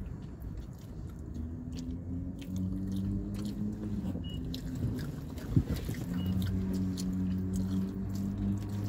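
Close-up chewing and mouth sounds of people eating noodles, with many small clicks and one sharp knock about five and a half seconds in. A low steady hum runs under most of it.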